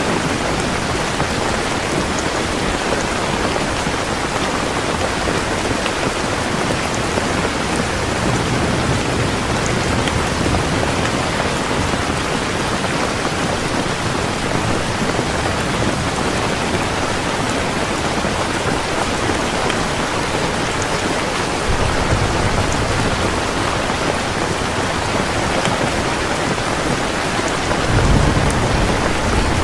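Heavy rain falling in a steady downpour, with low thunder rumbling a few times, the loudest rumble near the end.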